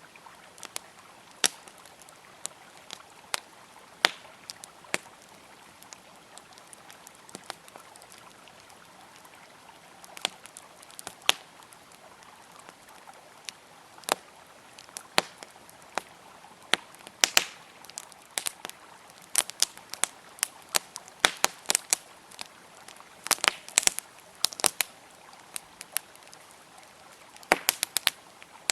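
Wood campfire crackling, with irregular sharp pops and snaps that come in quick clusters in the second half, over a steady faint rush of flowing river water.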